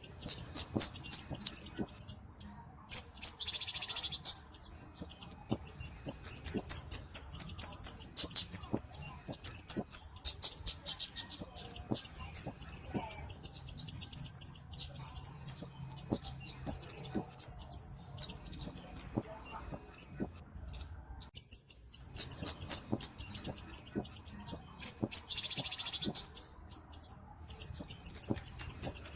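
Flowerpecker (cabe-cabean) song: rapid runs of thin, high-pitched chips, delivered in bursts of several seconds separated by short pauses. A brief hissing note comes twice, a few seconds in and near the end.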